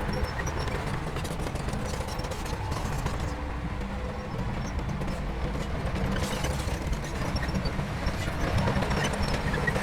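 Heavy diesel earthmoving machinery running steadily, a continuous low engine rumble with a faint steady hum.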